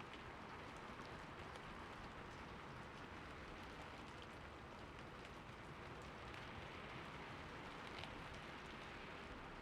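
Steady, fairly quiet rain, with faint individual drops ticking now and then over an even hiss.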